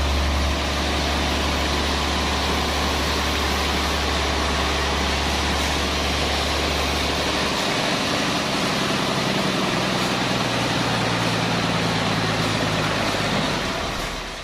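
Heavy sawmill machinery running steadily, with a loud low hum that drops away a little past halfway. The noise fades near the end.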